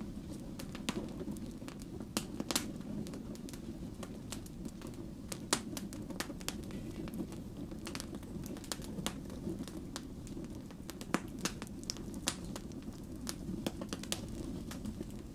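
Wood fire burning with a steady low rumble and irregular sharp crackles and pops of the logs, a few louder pops standing out.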